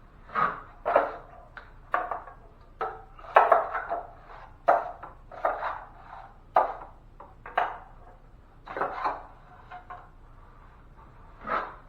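Drywall knife scraping against a mud pan and spreading quick-set joint compound: a dozen or so short, irregular scrapes.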